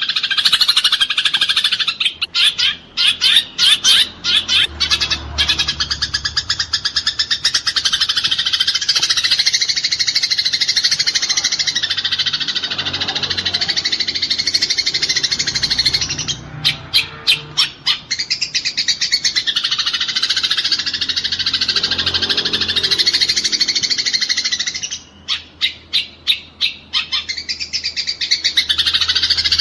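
Eurasian tree sparrows chattering and chirping in a fight: a dense, unbroken wash of calls, broken three times by runs of sharp, rapid chirps.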